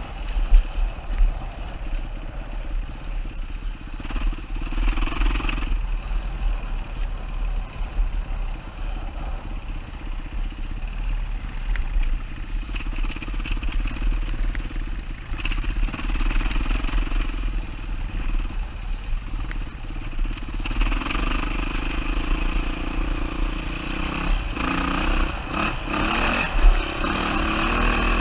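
2007 Yamaha WR450's single-cylinder four-stroke engine running under way, picking up revs several times and running hardest over the last several seconds.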